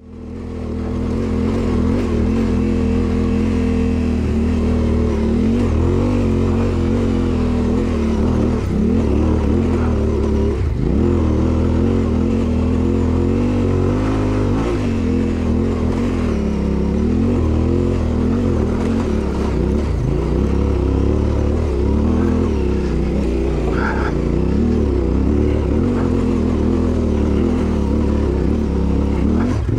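Yamaha Ténéré 700's parallel-twin engine pulling under load up a loose dirt track, its pitch rising and falling continually with the throttle, over wind and tyre noise from riding. It fades in at the very start.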